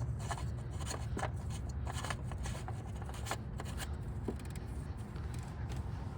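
Small irregular clicks and scrapes of a plastic oil filler cap being handled and screwed back onto the engine, over a steady low rumble.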